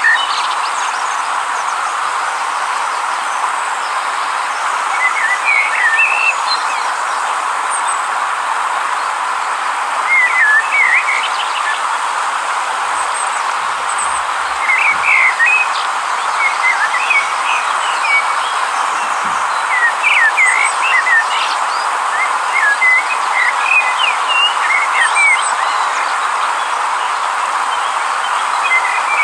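River water rushing steadily, with small birds chirping over it in short phrases of quick high notes every few seconds.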